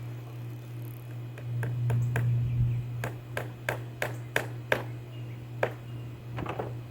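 A hammer tapping nails through wrapped rope into a wooden table leg: a few light taps, then about three taps a second from around three seconds in, thinning out near the end. A steady low hum runs underneath.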